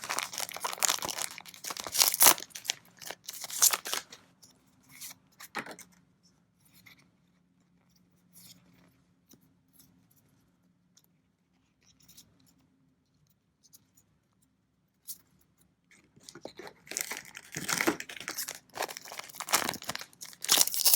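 Foil trading-card booster packs being torn open and crinkled, in loud rustling bursts through the first few seconds and again near the end, with a quieter stretch of faint ticks in between.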